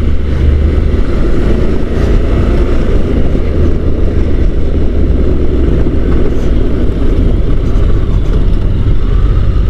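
Onboard riding noise from a Honda NC750 DCT motorcycle: a steady engine drone mixed with wind rush over the microphone.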